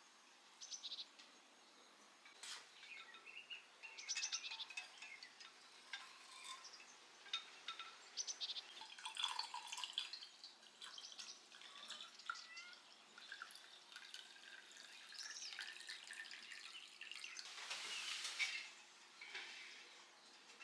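Birds chirping and singing in short, scattered calls and trills, with a brief rush of noise near the end.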